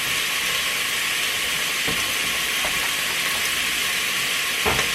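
Ground chuck frying in a Presto electric kitchen kettle, a steady sizzle. There is a light knock about two seconds in and a louder thump near the end.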